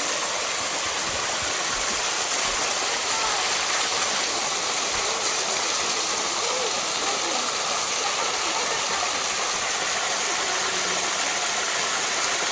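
Small waterfall and its stream rushing in a steady, even hiss of falling water.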